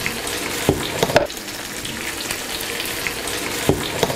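Tomato and jalapeño slices frying in butter in a nonstick pan: a steady sizzle with scattered small crackles. A few louder knocks come about a second in and again near the end.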